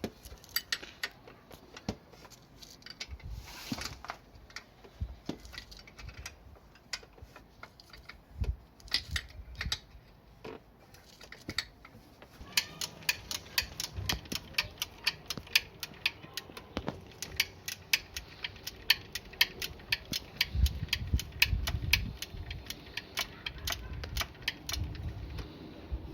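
Metal hand tools working on the motorcycle's engine bolts: scattered clicks and knocks, then from about halfway an even run of clicks, about three a second, with a few dull thumps near the end.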